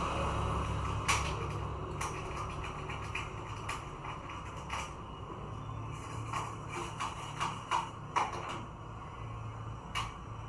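Irregular light clicks and taps, about a dozen spread unevenly, over a steady low hum.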